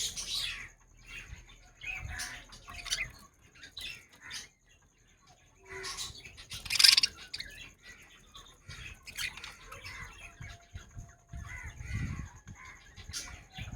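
Show budgerigars chirping and chattering in many short calls, the loudest burst about seven seconds in.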